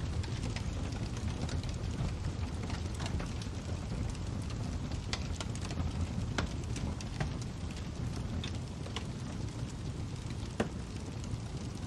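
Crackling fire: a steady low rumble of flames with scattered sharp pops and crackles, one louder pop near the end.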